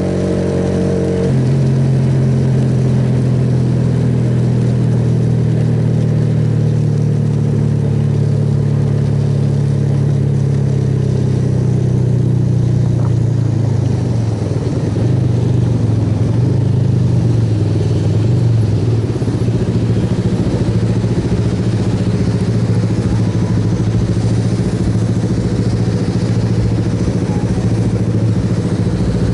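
Suzuki Yes motorcycle's single-cylinder engine running under way at a loud, steady drone. Its pitch shifts about a second in and wavers in the middle, then holds steady.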